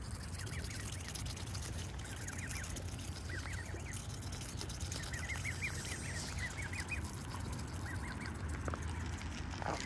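Birds calling in several short runs of quick, high notes, with a steady low hum underneath.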